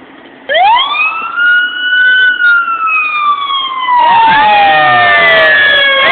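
Fire apparatus sirens starting up: a siren winds up sharply about half a second in and then slowly falls, and a second siren joins about four seconds in, the two wailing over each other.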